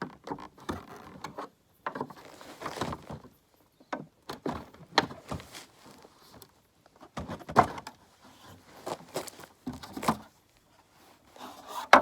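A flat-head screwdriver prying a plastic piece out of a BMW E36 rear bumper: irregular clicks, knocks and short scrapes of plastic and metal.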